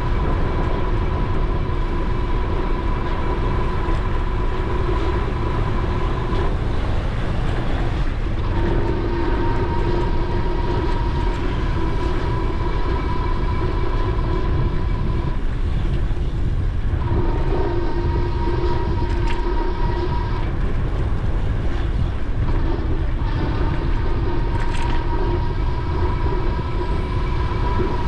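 Electric bike motor whining steadily under wind rumble on the helmet-camera microphone. The whine cuts out briefly three times and then resumes.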